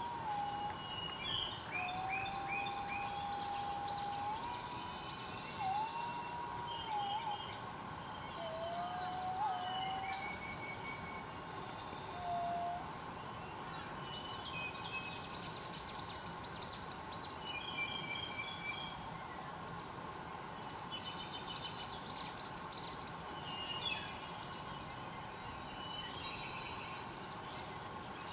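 Several wild birds singing and calling together, with many short high chirps and trills all the way through. During the first half there are also long, low, smooth whistled notes that slide and step in pitch, and these stop about halfway.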